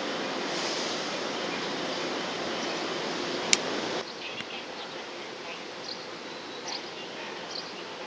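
Outdoor ambience: a steady rushing noise with a single sharp click about three and a half seconds in, then an abrupt drop to a quieter background with faint, short, high chirps.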